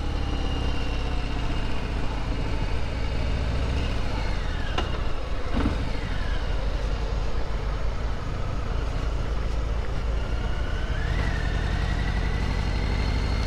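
Harley-Davidson Sport Glide's 107 cubic inch Milwaukee-Eight V-twin running at low town speed, under a steady low rumble of wind on the microphone. The revs fall away about four seconds in and climb again after about ten seconds as the bike pulls through a roundabout.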